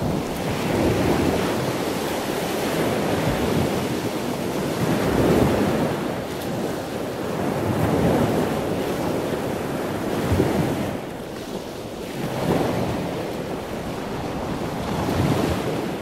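Rushing, surf-like water noise that swells and eases every few seconds, like waves breaking.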